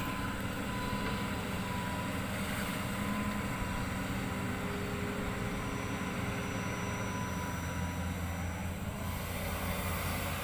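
Hitachi hydraulic excavator running steadily, a constant low engine hum with a faint steady whine above it.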